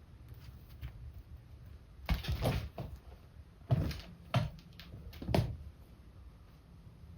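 Several thumps and scuffles from two cats rough-playing and chasing, bodies hitting the floor, in bursts about two, four and five seconds in.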